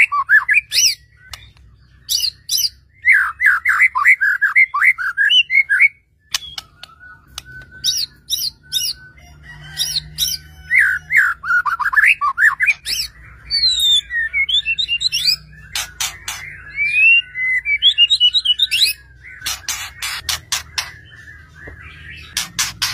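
White-rumped shama (murai batu) singing a loud, varied song: bursts of quick rising and falling whistled notes, stretches of higher twittering, and sharp clicking notes toward the end.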